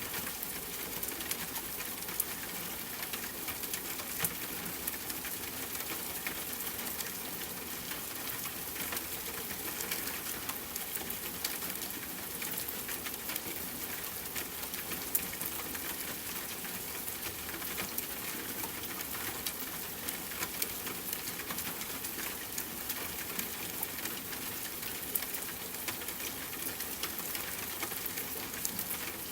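Steady rain falling, with a campfire crackling: an even hiss dotted with many small, sharp pops.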